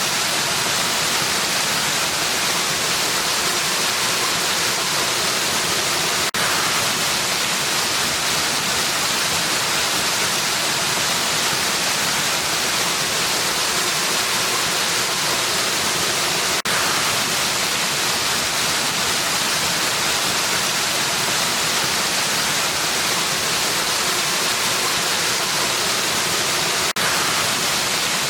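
Steady, even rush of falling water from a waterfall, heavy in the hiss, with three very brief dips about ten seconds apart.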